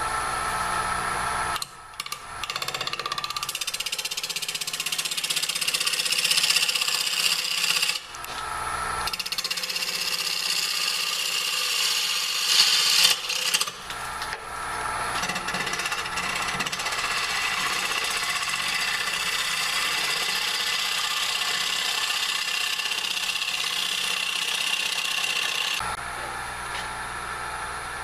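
Bowl gouge cutting a dry hard maple bowl on a Powermatic 3520 wood lathe with its 2 hp motor running. The cutting comes in long passes, with short breaks about two, eight and fourteen seconds in, and stops near the end, leaving the lathe humming. There are a few louder moments around twelve to thirteen seconds.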